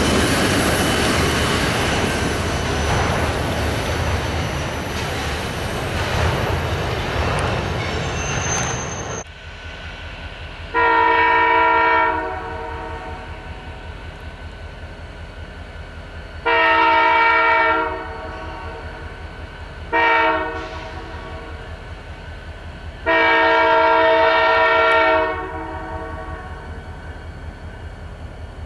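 Autorack freight cars rolling past close by, with steel wheels squealing high on the rail, until a sudden cut about nine seconds in. Then a diesel locomotive's horn sounds several tones at once in the grade-crossing pattern, long, long, short, long, over a low engine rumble as the locomotive approaches.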